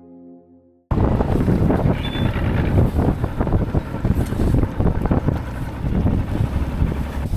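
Soft, sustained music tones fade out, then about a second in a hard cut to loud wind buffeting the microphone of a boat under way, with the motor and water rushing beneath it.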